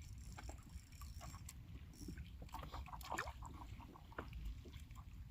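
Low steady rumble of wind and water around a small fishing boat, with scattered light clicks and knocks.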